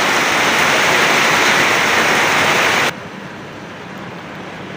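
Heavy rain falling, a loud steady hiss that cuts off abruptly about three seconds in, leaving a much quieter steady hiss.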